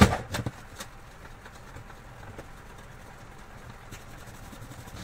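A few sharp knocks in quick succession in the first second, the first the loudest, then a faint steady background.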